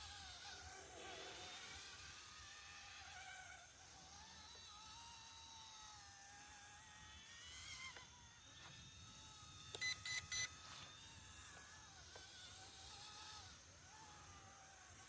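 Whine of a small electric RC model motor, its pitch wavering slowly up and down, with three short, loud beeps close together about ten seconds in.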